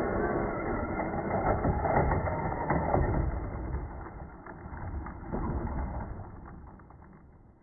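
Traxxas Sledge Hammer VXL radio-controlled monster truck driving, its motor and tyres making a rough, uneven noise that fades away over the last few seconds.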